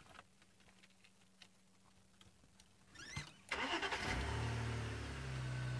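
Safari vehicle's engine being started: a short burst of cranking, then the engine catches about three and a half seconds in and runs steadily, its note stepping up slightly a second or so later.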